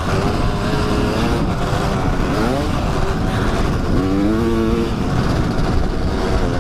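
Kawasaki dirt bike engine running under way on a trail, its pitch rising and falling several times as the throttle is worked, over a steady low rumble.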